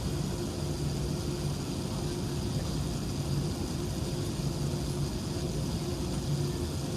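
Steady cabin noise of an Airbus A380-861 taxiing, heard from inside: the Engine Alliance GP7200 engines at low thrust give a low hum that swells and fades slightly, under an even hiss.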